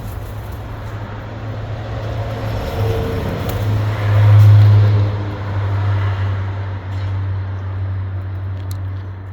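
Low, steady motor-vehicle rumble that swells to its loudest about four to five seconds in and then fades, as of a vehicle passing.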